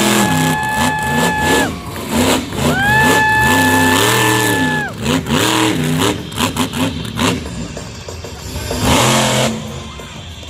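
A vehicle engine revving repeatedly, its pitch rising and falling with each blip of the throttle. A loud, steady, horn-like high tone sounds twice, each time for about two seconds.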